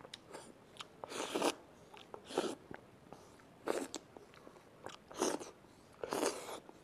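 A person biting and chewing a slice of fresh papaya, wet eating sounds coming in about five separate bursts.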